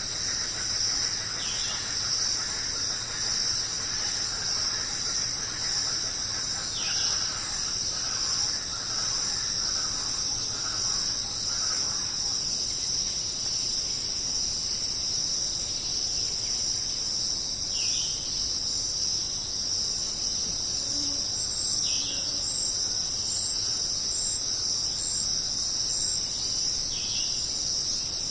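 Jungle insect chorus, a steady high-pitched shrill, with a bird giving a short falling call a handful of times and a few faint higher chirps near the end.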